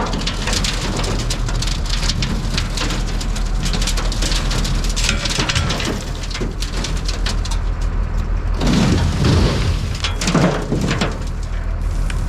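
Sand pouring onto the steel dump box of a truck, a steady rain-like pattering hiss full of fine crackles, over an engine running underneath.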